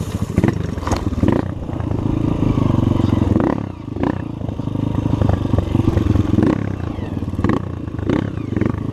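Trail motorcycle engine running with the throttle opening and closing, easing off briefly about three and a half seconds in, with several clattering knocks mixed in.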